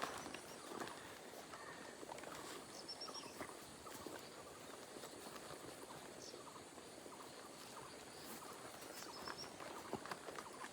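Faint outdoor ambience: a steady soft hiss with scattered light taps and, twice, a brief high chirp of a small bird.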